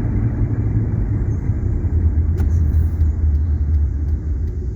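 Low, steady road and engine rumble heard from inside a moving car's cabin, swelling a little about halfway through.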